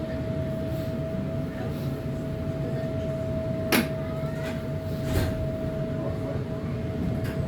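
Tram running on its rails: a steady low rumble with a constant whine, and a few sharp clicks about halfway through.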